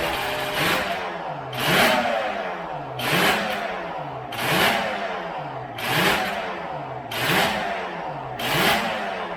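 Motorcycle engine being revved over and over, the throttle blipped about six times, once every second and a half, each rev rising in pitch with a sharp exhaust bark before it drops back.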